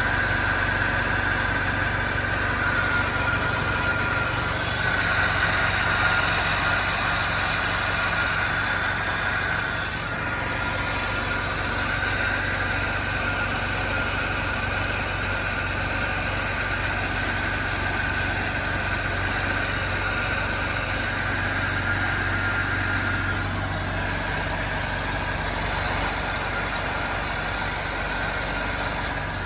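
BMW E70 X5 4.8-litre V8 (N62) running at idle in cold weather with a high-pitched squeal-like whine that wavers in level, over a low engine hum and a fast light ticking; this is the noise the engine makes only when it is cold outside.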